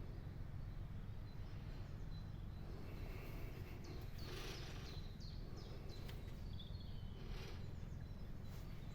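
Birds chirping, a few short falling calls in the middle, over a steady low hum.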